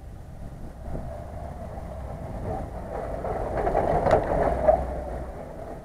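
Lada Niva 4x4 driving on a snowy track, its engine growing louder as it comes close, loudest about four seconds in, then easing off.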